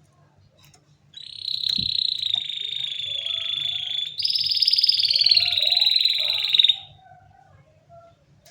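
Canary singing two long, very rapid trills, its rolling song: the first starts about a second in and lasts about three seconds, and the second is slightly higher, falls a little in pitch and stops near the end.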